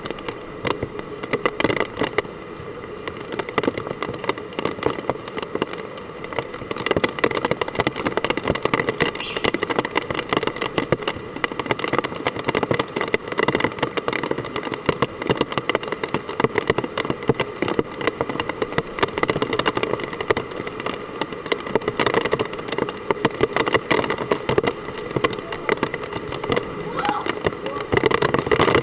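Heavy typhoon rain, a dense steady patter of countless drops striking a hard surface, rising a little in strength partway through.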